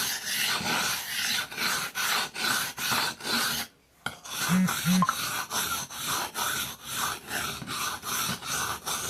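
Knife blade being drawn back and forth over a wet whetstone: a quick, even run of rasping strokes, about three a second, with a brief pause about four seconds in.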